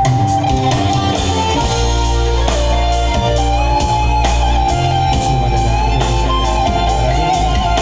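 Band music: a guitar plays a wavering lead melody over bass and regular drum strikes.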